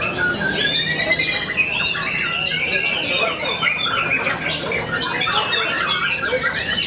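Many caged songbirds singing at once: a dense, unbroken tangle of overlapping whistles, chirps and trills.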